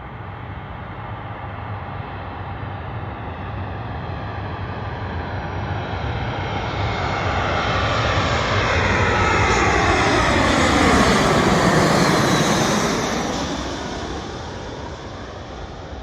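Airliner on landing approach flying close past: its engine noise builds, peaks about eleven to twelve seconds in, then fades, with a sweeping, phasing whoosh as it passes.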